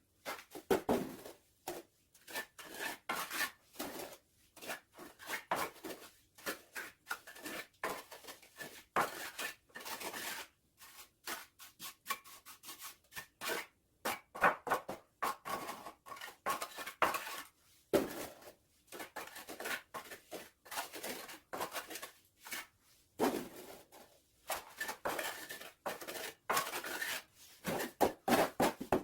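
Metal trowel scraping and spreading cement mortar in quick, irregular strokes, with a faint metallic ring on some strokes.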